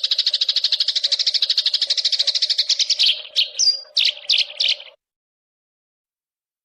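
A small songbird's tutor-recording song: a fast, even run of high chirps, about a dozen a second, that breaks into a few separate sweeping notes near the middle and cuts off abruptly about five seconds in as the track ends.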